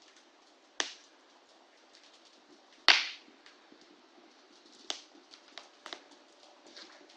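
Bonfire crackling: sharp pops of burning wood about a second in, a louder one near three seconds and another near five, with smaller crackles between them over a faint hiss.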